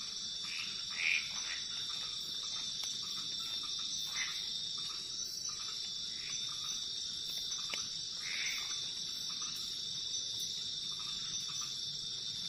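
Night-time tropical forest chorus of insects and frogs: a steady high-pitched insect drone, with a few separate louder calls about a second in, around four seconds and around eight seconds.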